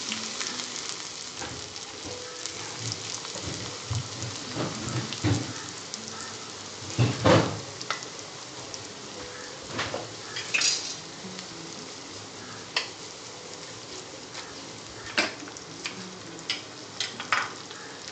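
Chopped shallots and garlic sizzling and crackling steadily in hot coconut oil in a small pan for a tempering. A few sharp knocks against the pan come through, the loudest about seven seconds in.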